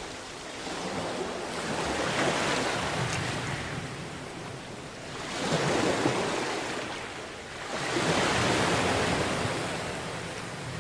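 Sea waves breaking and washing on a beach: three surges of rushing water, each swelling and falling back over a few seconds.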